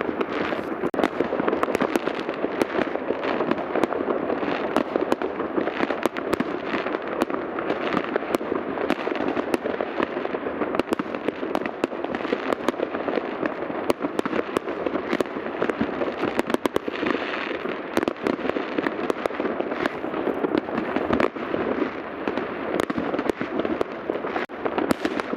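Many fireworks going off at once in every direction, their bangs and pops overlapping without a break into a continuous crackling din.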